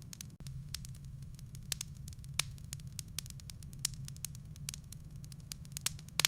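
Wood fire burning in a fireplace: irregular crackles and pops from the burning logs over a steady low rumble of the flames, with a sharper pop near the end.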